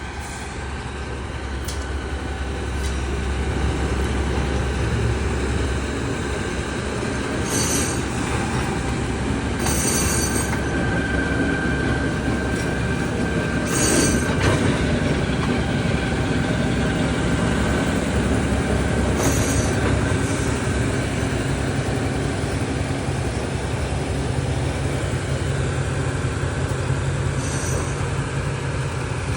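Train rolling along the track with a steady rumble and a faint high wheel squeal. About five short, high-pitched bursts are heard along the way.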